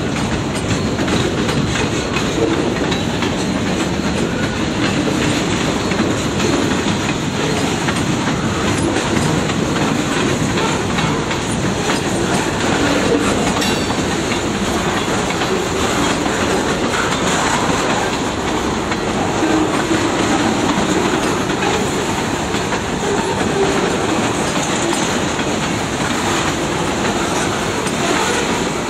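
Freight train cars rolling past steadily, steel wheels running on the rails.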